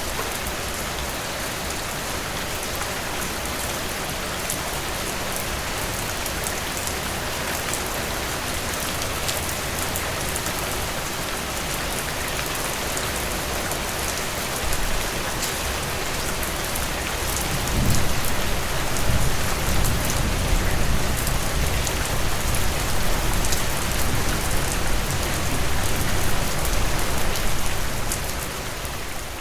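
Heavy rain pouring steadily in a dense hiss. About two-thirds of the way in, a low rolling rumble of thunder comes in and the sound gets louder, then it all starts fading out near the end.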